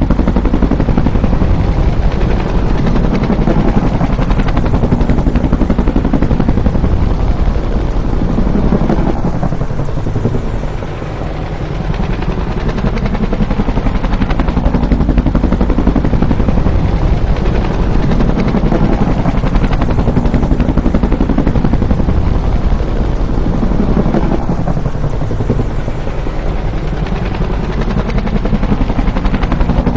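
Bell UH-1 'Huey' helicopter running, with the fast, steady chop of its two-bladed rotor. Twice the sound eases off briefly, with its pitch sweeping down and back up.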